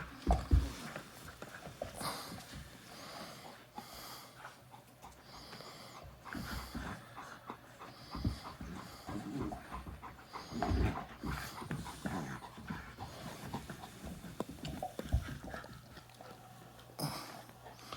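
Puppy panting in short, irregular breaths, with a few thumps near the start, about 11 seconds in and about 15 seconds in.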